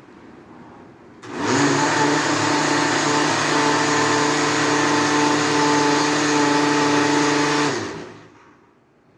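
Countertop blender motor running on ginger pieces and water. It starts up about a second in, rising quickly to a steady high-speed whir, then winds down and stops near the end.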